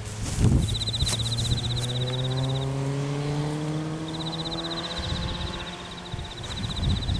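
A motor vehicle's engine accelerating, its pitch rising steadily for about five seconds before it cuts off. Wind buffets the microphone about half a second in and again near the end.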